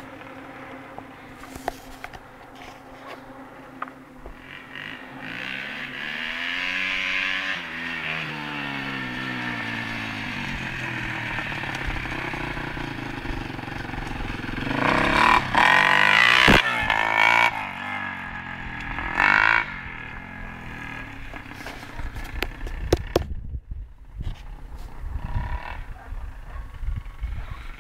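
Dirt bike engine revving up and down in pitch as it is ridden past, loudest about halfway through. Near the end, irregular bumps and rustling on the microphone.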